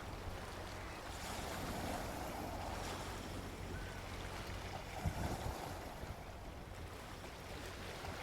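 Gentle sea waves washing on a beach: a steady wash of surf that swells and eases, with a brief low thump about five seconds in.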